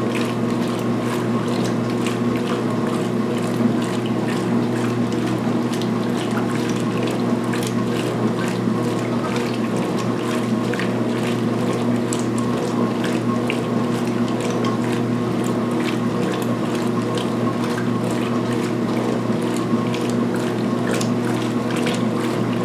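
2016 Speed Queen agitator washing machine in high-speed agitation: a steady motor hum with gear and mechanism noise from the drive, and water sloshing with small clicks.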